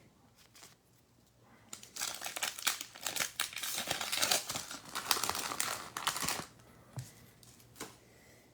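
A trading-card pack's wrapper being torn open and crinkled, a dense crackle lasting about four seconds, with a few light handling clicks before and after.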